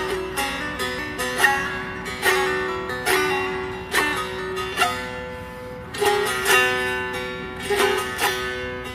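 Bağlama (saz) playing an instrumental introduction to a Turkish folk song: plucked notes, each sharply struck and ringing on over a steady sustained tone.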